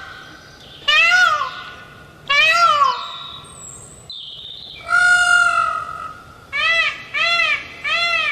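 Indian peafowl (peacock) calling: two loud, high wails that rise and fall, a longer held call about five seconds in, then a quick run of short repeated calls near the end.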